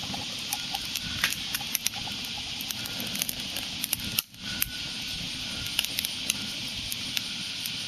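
Small wood fire crackling: irregular sharp pops and snaps over a steady hiss, which briefly drops out about four seconds in.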